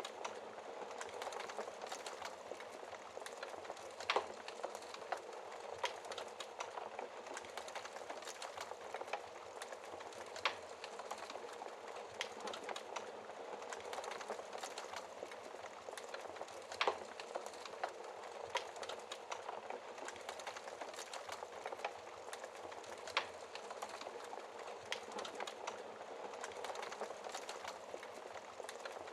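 Wood fire in a fireplace crackling steadily, with a few sharper, louder pops about every six seconds.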